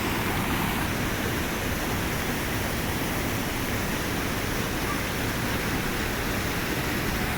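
Madhabkunda waterfall, swollen and brown with heavy monsoon flow, plunging about 200 feet: a steady, dense whooshing rush of falling water.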